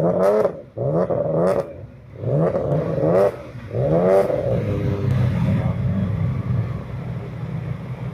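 Car engine revved in four quick rising blips, then running steadily.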